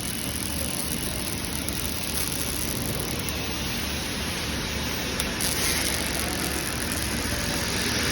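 Steady industrial noise from a robotic frame-welding line, an even grainy hiss, slightly louder from about five seconds in.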